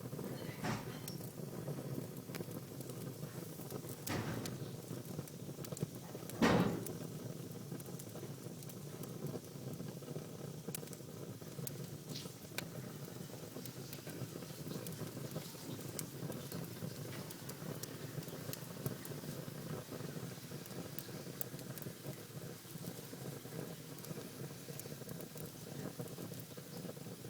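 Wood fire in a fireplace burning with a steady low rush and scattered small crackles. Stronger pops come under a second in, about four seconds in, and loudest about six and a half seconds in.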